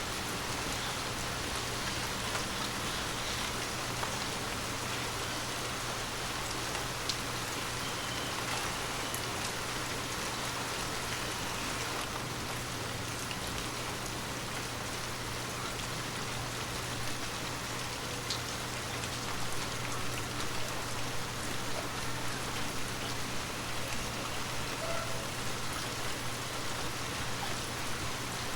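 Heavy rain falling steadily on a hard surface, an even hiss with scattered drop ticks, over a low steady hum.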